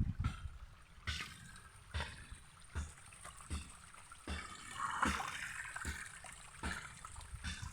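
Water trickling and splashing down a small waterfall, with irregular soft knocks.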